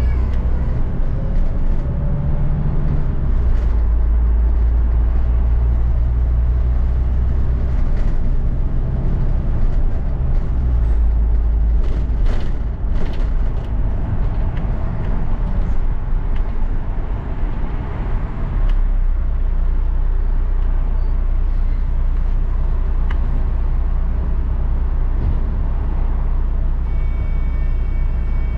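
Interior of a London double-decker bus on the move: a steady low engine and road rumble that strengthens and eases as the bus pulls away and slows, with a few brief rattles partway through.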